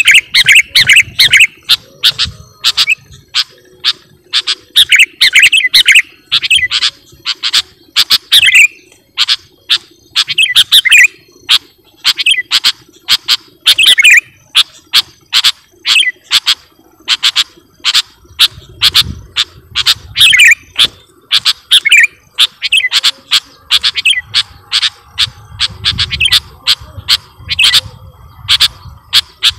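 Sooty-headed bulbul (kutilang) calling vigorously: a continuous run of sharp, loud chirps grouped into short bubbly phrases every second or two.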